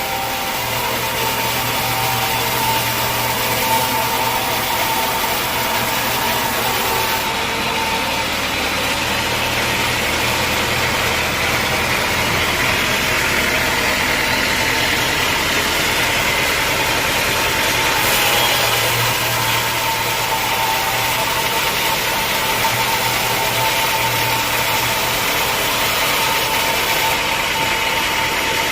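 Sawmill machinery running steadily, a constant mechanical hum with a steady whine, as the mill saws dense acacia logs.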